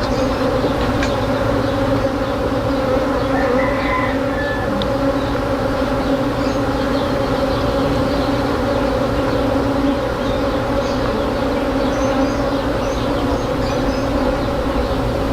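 Honey bee swarm buzzing close by: a dense, steady hum of many bees at once.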